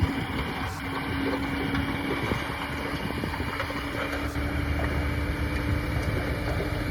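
Diesel engine of heavy earthmoving equipment running steadily: a continuous low rumble with a steady hum held throughout.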